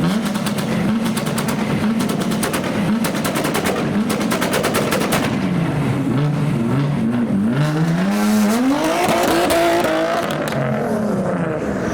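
A modified car's engine revving hard on departure, with a rapid rattle of exhaust pops for the first few seconds. It then accelerates away, the engine pitch rising and falling as it pulls through the revs.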